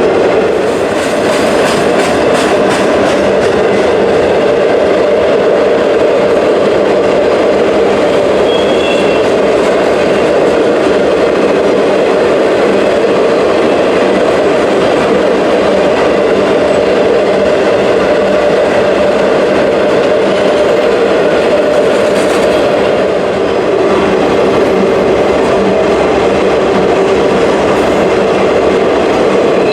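Freight train cars rolling past close by: a loud, steady rumble of steel wheels on rail, with a brief high wheel squeal about a third of the way through.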